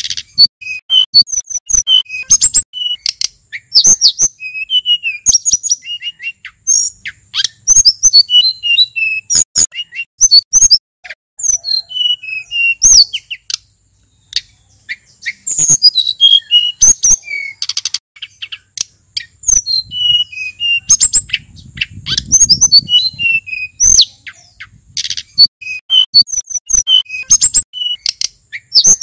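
Male sulingan gunung songbird singing, a fast run of varied high chirps and whistled notes with a short pause about halfway through.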